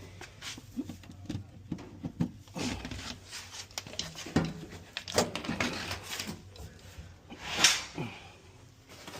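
Dryer parts being handled during reassembly: a string of irregular knocks, clicks and clatters, with a louder scrape near the end.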